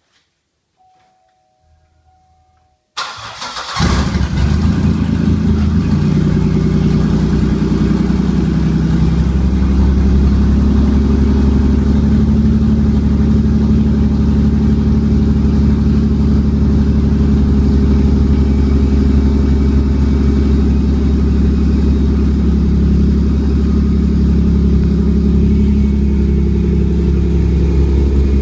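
Pontiac Bonneville 3800 V6 started with the exhaust open at the manifolds, downpipe off: after a brief faint tone, it cranks and catches about three seconds in, then runs at a loud, steady idle.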